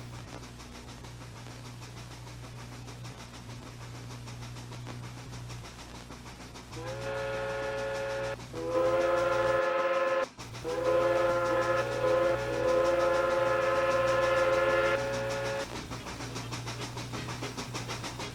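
Pennsylvania Railroad steam locomotive whistle blowing at one steady pitch, starting about a third of the way in: a short blast, a second blast, then a long blast of about five seconds. A steady low hum and hiss from the locomotives runs beneath it.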